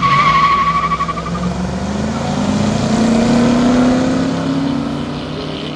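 Two classic American cars launching from a drag strip start line. A brief wavering squeal comes at the launch, then the engines accelerate hard with a steadily rising pitch, loudest about four seconds in and fading as the cars pull away.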